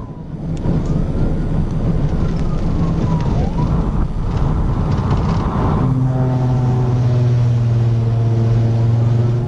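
Police cruiser in a high-speed pursuit: the siren wails up and down over loud engine and road noise. About six seconds in, a strong, steady engine drone takes over.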